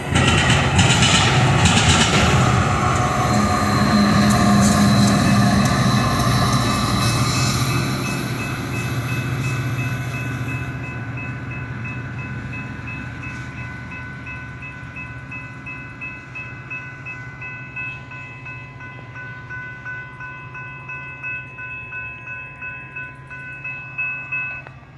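Metra commuter train passing with a loud rumble and clatter of wheels on the rails, fading steadily as it moves away. Under it a railroad crossing bell rings in a steady, rapid beat and stops suddenly near the end.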